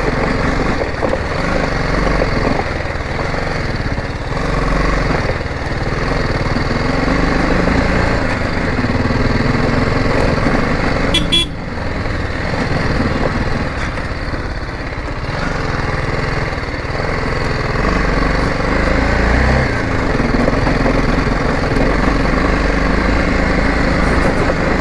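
Motorcycle engine running steadily as the bike is ridden along a dirt trail, with a brief dip in the noise about halfway through.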